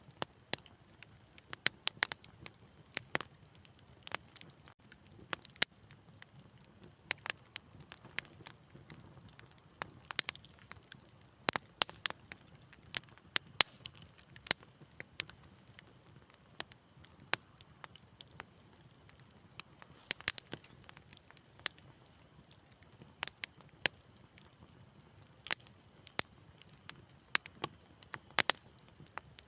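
Wood fire in a fireplace crackling: irregular sharp snaps and pops, sometimes several close together, over a faint steady low rumble of the flames.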